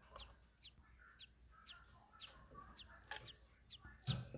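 Hatching budgerigar chick peeping faintly: short, high, falling cheeps, about two a second. A handling bump comes near the end.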